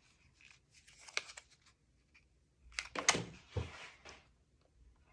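Paper and card being handled on a craft table: light rustling and crinkling with small clicks, busier and louder about three seconds in with one sharp tap.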